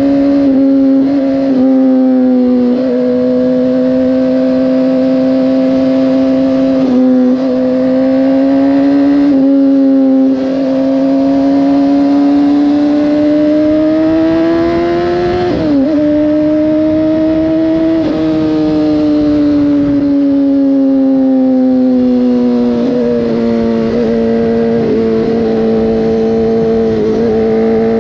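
Motorcycle engine running on the road under way, its pitch holding steady, climbing slowly, dropping sharply about sixteen seconds in, then easing lower, with a faint steady rush of wind and road noise underneath.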